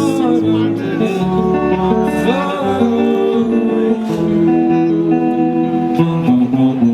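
Live band playing an instrumental passage between sung lines, guitar prominent over sustained pitched instrument lines.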